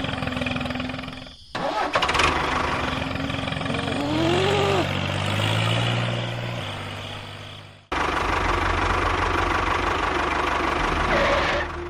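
Engine running in several abruptly cut segments, with a rising whine about four seconds in.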